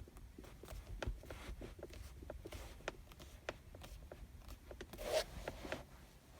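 Stock centre armrest of a Hyundai Solaris creaking and clicking as it is pressed down in its retracted position: a string of short, faint plastic creaks, with a longer, louder one about five seconds in. This is the squeak the owner has had from the armrest since new.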